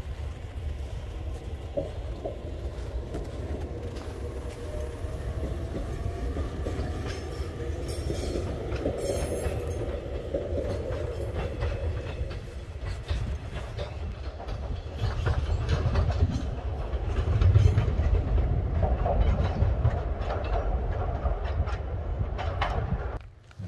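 Small three-car tourist train running along the line, a steady low rumble with wheels clattering over the rail joints, growing louder in the second half before the sound drops away suddenly near the end.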